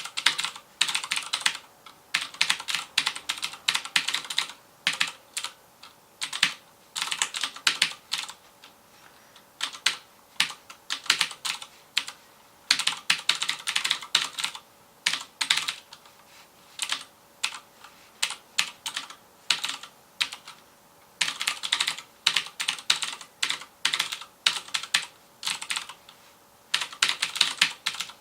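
Typing on a FILCO Majestouch Convertible 2 mechanical keyboard with Cherry MX Blue switches: rapid runs of sharp, clicky keystrokes broken by short pauses.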